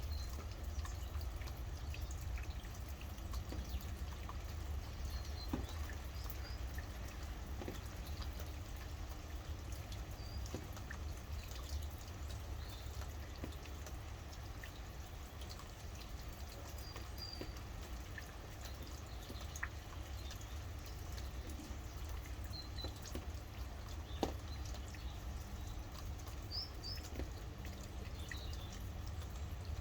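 Steady rain with scattered drips, and a few short, high bird chirps now and then over a low rumble.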